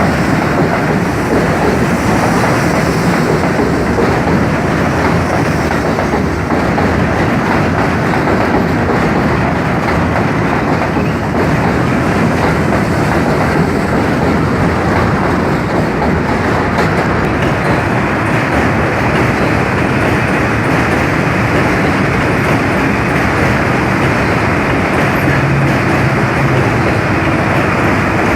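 New York City subway train on the Williamsburg Bridge, its steel wheels running loudly and steadily over the rails, with a low hum coming in near the end.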